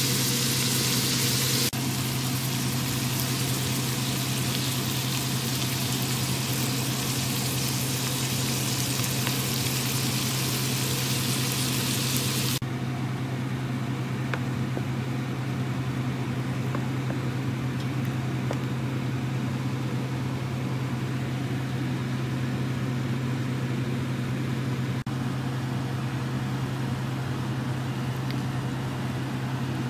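Diced onion, celery and bacon sizzling as they sauté in a steel stockpot, over a steady low hum. About twelve seconds in the sizzle cuts off abruptly, leaving a quieter, duller hiss from the simmering chowder under the same hum.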